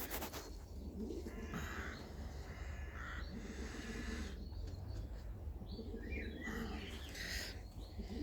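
Pigeons cooing, low repeated calls several times over, with rustling and a few higher squeaks among them.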